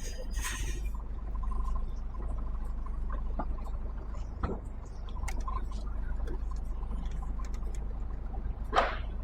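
HGV tractor unit's diesel engine running low and steady, heard from inside the cab, with scattered clicks and a short burst of noise near the start and again near the end.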